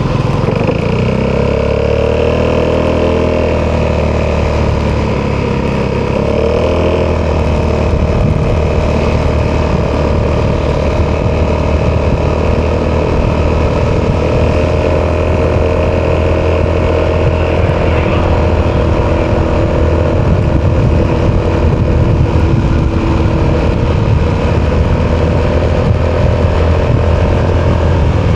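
Italjet Dragster 200 Malossi Edition scooter's single-cylinder four-stroke engine running through an Akrapovic exhaust. Its pitch dips and rises a couple of times in the first seven seconds, then holds fairly steady.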